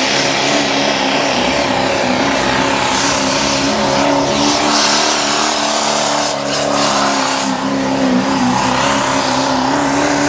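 Diesel four-wheel-drive pulling truck running flat out as it drags the weight-transfer sled down the track. The engine note is loud and nearly steady, with a dense hiss over it.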